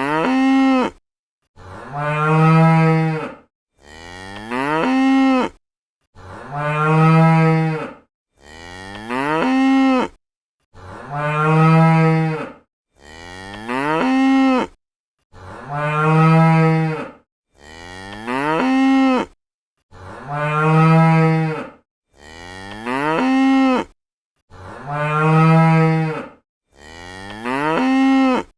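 Domestic cow mooing over and over: about a dozen deep calls, each a second or two long, separated by brief silent gaps. The same two calls alternate throughout, as if a recording were repeated.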